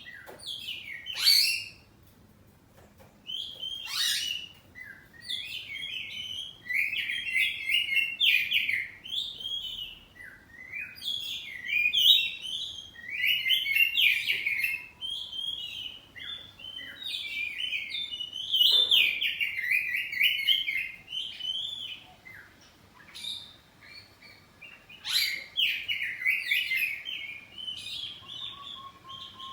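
Oriental magpie-robin (kacer) singing a loud, varied song: fast runs of warbled and chattered notes in bursts with short pauses, punctuated by sharp, piercing whistles.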